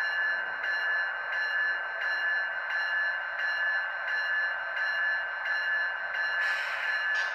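HO scale model train running on the layout: a steady high-pitched whine with a faint tick about every two-thirds of a second, and a brief hiss about six and a half seconds in.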